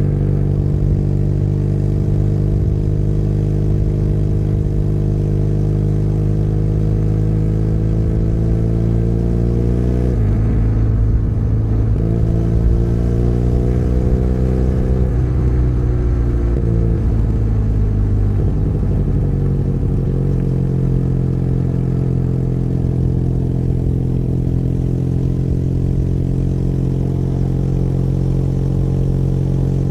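Benelli Leoncino 500 Trail's parallel-twin engine running under way. Its pitch climbs slowly and shifts abruptly about ten and fifteen seconds in, as at gear changes, then eases off and holds steady through the second half.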